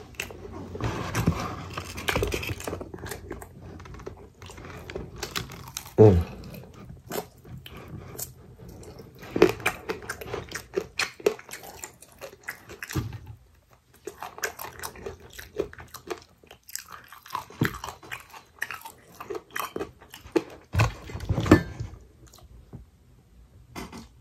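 Close-up chewing and biting of fried chicken wings, with crunching of the fried coating and many small irregular clicks of the mouth. A louder bite or smack comes about six seconds in and again near the end.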